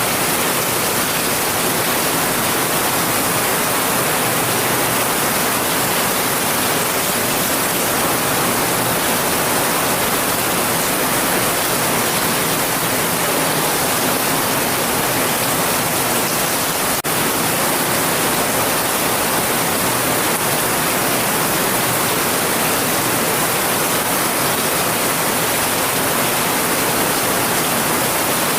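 Steady heavy rain: a dense, even hiss with no break, and one faint click about two-thirds of the way through.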